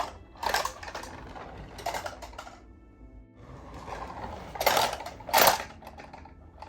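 Toy cars and a plastic car-carrier truck being handled: a run of clicks, clacks and rattles, the loudest two close together about five seconds in, over quiet background music.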